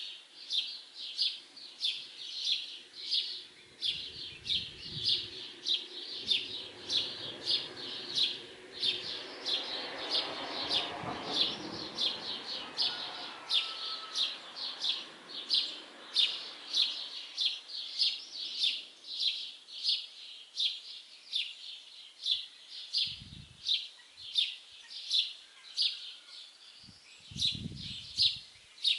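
A small songbird chirping one short high note over and over, about two chirps a second at an even pace. A faint low rumble swells and fades behind it in the middle.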